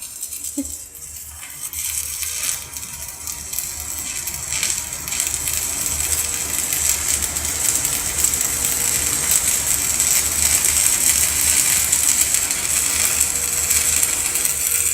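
Electric arc welding with a rod electrode on a Daesung welding machine: a steady crackling, sizzling hiss from the arc that builds over the first few seconds and then holds.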